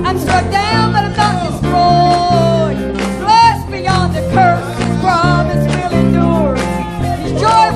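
Church worship band music: guitar and bass with a gliding melodic lead line over them.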